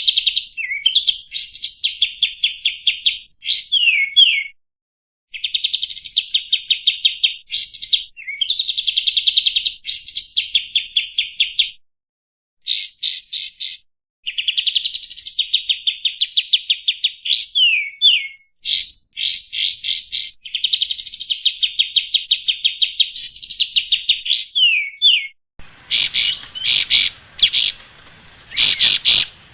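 Kapas tembak bulbul singing a chattering song of rapid high trills broken by quick downward whistled sweeps, with two short pauses. About 26 s in, a hiss of background noise joins the song.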